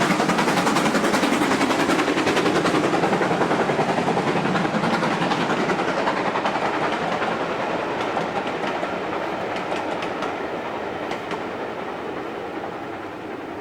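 Steam-hauled train running past, with rapid beats and rail noise, fading steadily as it draws away.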